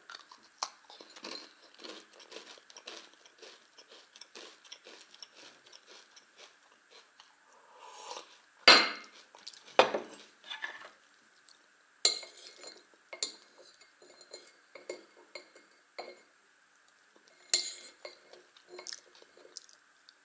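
Close-up chewing and crunching of a white-glazed multigrain candy, with light clinks of a mug and saucer. Two louder bursts stand out a little before the middle, and sharp clicks follow in the second half.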